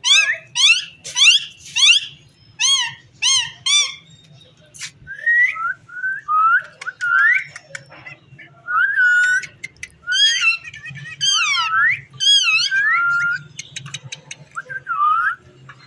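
Rose-ringed parakeet (Indian ringneck) calling: a run of quick, repeated warbling notes for the first few seconds, then a series of lower, swooping whistles.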